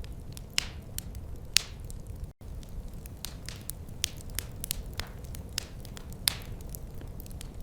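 Wood fire crackling: irregular sharp pops and snaps over a steady low rumble of flames. The sound cuts out for a split second about two and a half seconds in.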